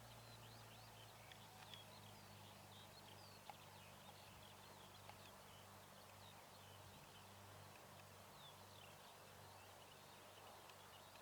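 Faint outdoor birdsong, many short chirps, over a low steady hum.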